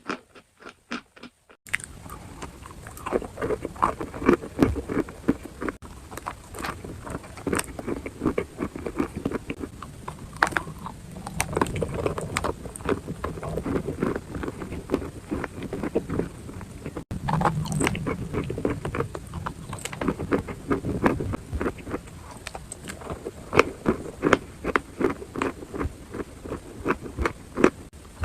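Close-miked crunchy chewing of a hard, dry mouthful such as chalk or clay, with many sharp cracks. It starts after a brief pause at the beginning and goes on steadily.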